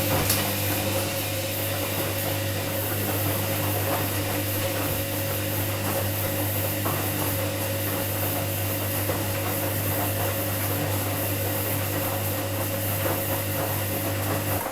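Washing machine running with a steady motor hum of unchanging pitch over a rushing hiss, then cutting off abruptly at the very end.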